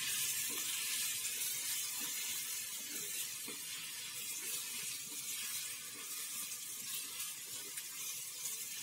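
Onion, tomato and pirandai frying in oil in a clay pot over a wood fire: a steady sizzle that slowly eases, with a few soft scrapes of a steel spoon stirring.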